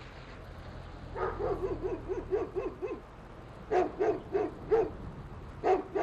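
Deep barking of a large Newfoundland dog: a quick run of about seven barks, then a second run of about five, and one more near the end, over a low steady hum.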